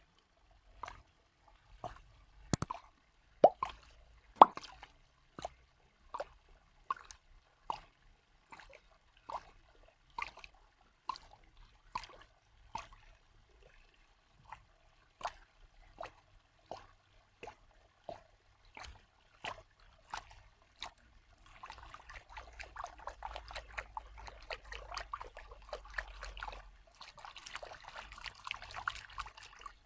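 Water drops plopping one after another at a steady pace, a little more than one a second. About two-thirds of the way in, a continuous trickling and splashing of water starts under the drops.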